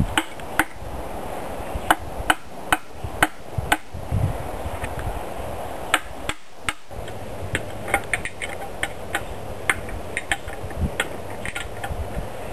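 Light hammer taps on metal during work on a generator's exhaust manifold: a run of about five taps roughly two a second a couple of seconds in, then scattered lighter ticks.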